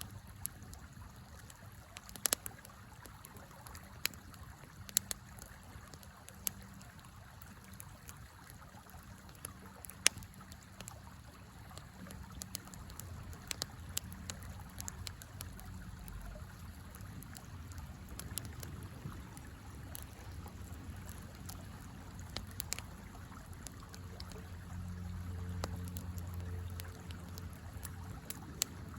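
Wood fire crackling with scattered sharp pops, the loudest about ten seconds in, over the steady rush of a flowing river.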